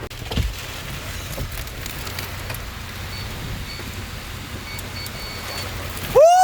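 Steady rain falling, with a brief low thump about half a second in. Near the end a loud, held pitched sound cuts in, gliding up in pitch before levelling off.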